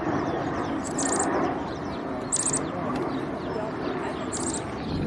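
Birds giving short, high chirping trills about every one to two seconds over a dense, continuous background chatter.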